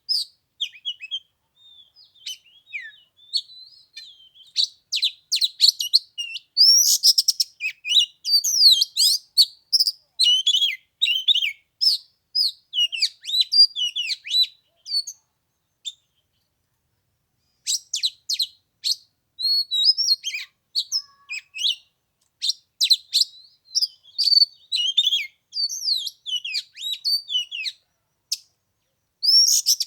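Oriental magpie-robin singing a long, varied song of quick whistles and chirps, broken by short pauses about sixteen seconds in and near the end.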